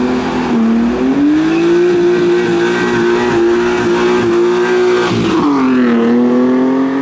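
Car engine accelerating hard: the revs climb about a second in and hold high and steady for about four seconds. Near the end they drop and climb again, as at a gear change.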